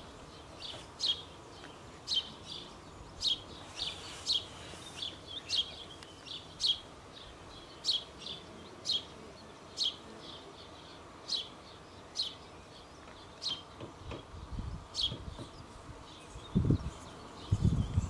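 A bird repeating a short, sharp, high call over and over, about once or twice a second. A few low thumps come near the end.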